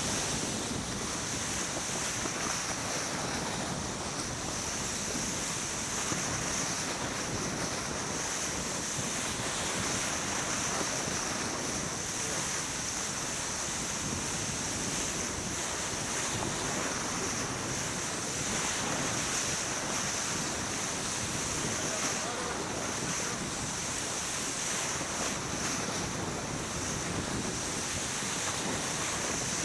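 Wind buffeting the microphone and water rushing past a sailboat under way, a steady noise without breaks, topped by a constant high hiss.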